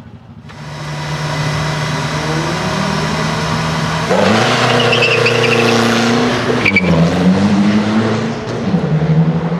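BMW E46 Compact race car's engine running at steady revs, then revved harder about four seconds in as the car pulls away. The revs drop back around seven seconds and climb again near the end.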